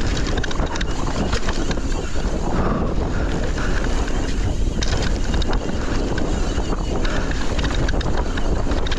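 Wind buffeting the microphone while a Forbidden Dreadnought mountain bike rolls down a dirt trail, with steady tyre noise and many small clicks and rattles from the bike and trail.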